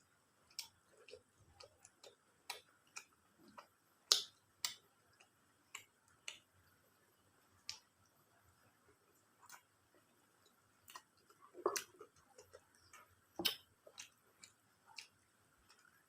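Close-miked eating sounds of someone eating chicken biryani: irregular wet clicks and smacks of chewing, with a few louder ones about four, twelve and thirteen and a half seconds in.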